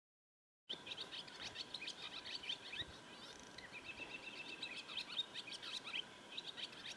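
Silence, then from just under a second in, many birds chirping and singing at once, a steady stream of short, quick calls, with a faint steady tone underneath.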